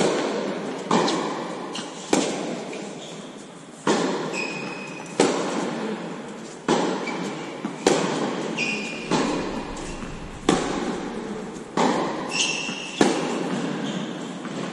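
Tennis balls struck back and forth in a rally: about a dozen sharp racket hits, roughly one every second and a quarter, each echoing away in a large hall, with short squeaks of court shoes between some of the shots.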